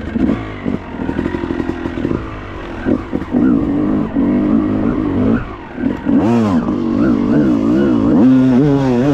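Dirt bike engine revving, its pitch rising and falling again and again as the throttle is worked, the revs wavering faster near the end.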